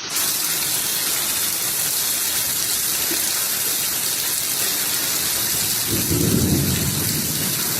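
Heavy rain falling in a steady hiss, with a low rumble of thunder about six seconds in.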